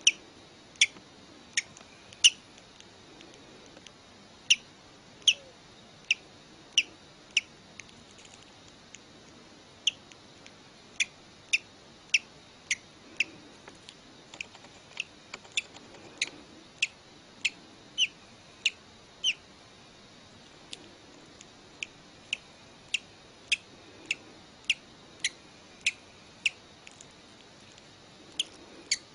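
A hatching baby bird's short, high peeps, about one or two a second in uneven runs with a couple of short pauses.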